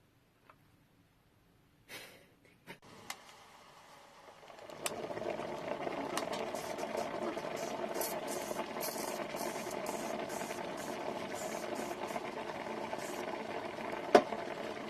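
Handheld travel clothes steamer: a few clicks, then about four and a half seconds in it starts running with a steady buzz, with short hisses of steam over it. One sharp knock near the end.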